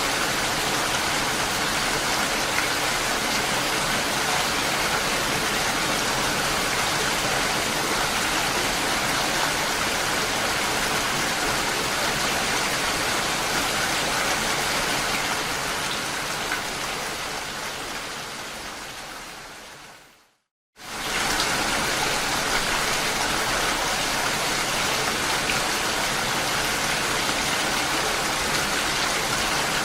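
Steady rain falling, an even hiss of drops. About two-thirds of the way in it fades out over a few seconds to a half-second of silence, then returns abruptly at full level.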